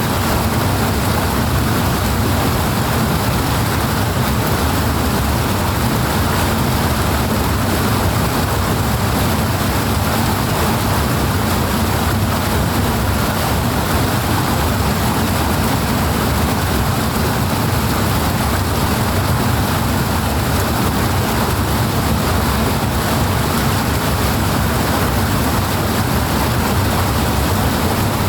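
Steady, loud rushing water with a deep low rumble, unbroken and unchanging throughout.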